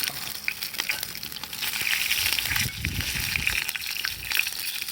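Chicken pieces sizzling on a grill over a wood fire, with small crackles, and a stretch of crunching about two and a half seconds in.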